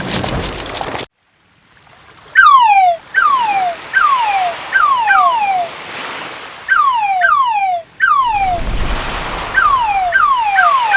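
A crackling, bubbling sound-effect noise that cuts off suddenly about a second in. After a brief gap comes a series of loud falling whistled calls, about one or two a second, each sliding down over half a second, with a wash of surf swelling near the end.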